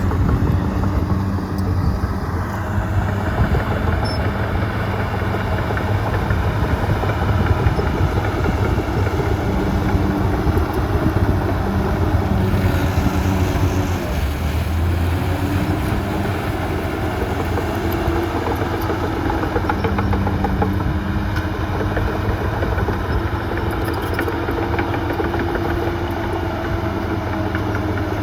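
Heavy diesel engines of earthmoving machinery running steadily, their engine speed rising and falling as they work under load.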